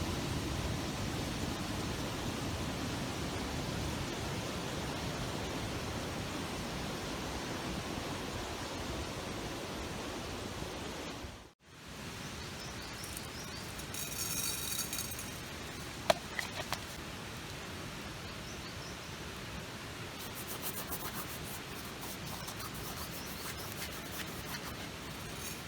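Steady outdoor noise haze. After a sudden break about halfway, a quieter haze follows with a few short clicks and faint crackles.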